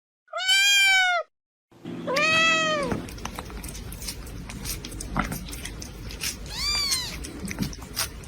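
Domestic cat meowing three times: one call about half a second in, another about two seconds in and a third near the end, each rising and then falling in pitch. A steady background noise with small clicks comes in after the second meow.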